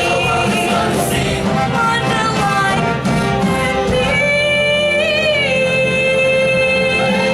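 Music with singing voices; from about four seconds in, the singers hold one long note.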